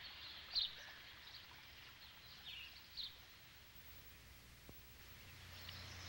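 Faint rural outdoor ambience with small birds chirping: a few short high calls, the loudest about half a second in and another, falling, near three seconds in. A low hum comes in near the end.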